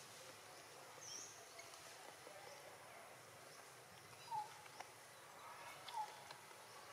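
Quiet outdoor ambience with a few short, falling bird chirps: a faint high one about a second in, then two louder ones about four and six seconds in.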